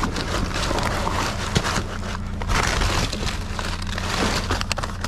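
Hands rummaging through trash in a dumpster: plastic and paper crinkling and rustling, with scattered clicks of debris shifting and one sharper knock about one and a half seconds in.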